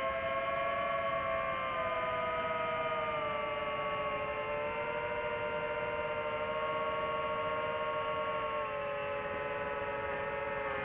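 DJI FPV drone's motors and propellers whining in flight, several held tones drifting slowly up and down in pitch as the throttle changes.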